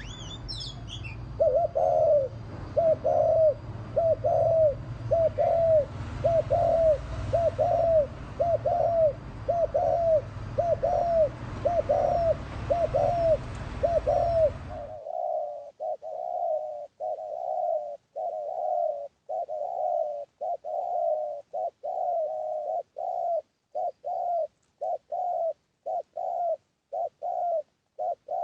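Spotted dove (cu gáy) giving a long run of short, repeated bowing coos, about two a second, as used in a decoy call to rouse rival males. A steady low hum and hiss under the first half cut off abruptly about halfway, and a few high chirps from a smaller bird come in the first second.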